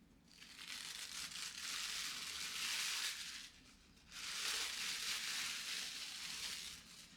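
Crisp crinkling and crunching in two long stretches of about three seconds each, with a short pause between them.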